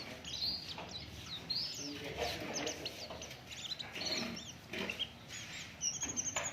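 White-eyes (pleci) chirping and twittering: many quick, high, rising and falling notes, with fainter lower sounds underneath.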